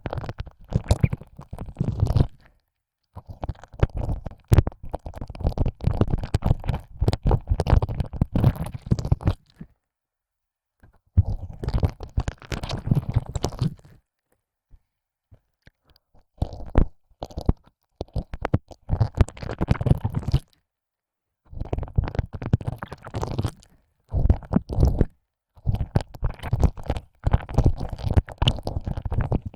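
Close, wet tongue and mouth sounds of ear licking, a tongue sliding in and out of the ear opening with crackly clicks and slurps. It comes in stretches of a few seconds broken by short silences.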